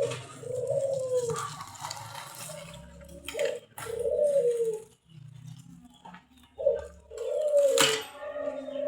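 A bird cooing: several short, low calls that rise and fall, with a couple of knocks and some rustling between them.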